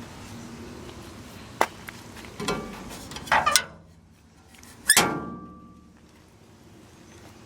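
Metal clicks and clanks from an old pickup's door being handled, then one loud metal slam about five seconds in that rings briefly.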